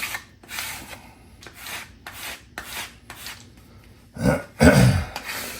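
Repeated rubbing strokes, about two a second, over a vinyl decal's transfer tape, pressing it down onto a car's rocker panel. Two louder, deeper sounds come about four seconds in.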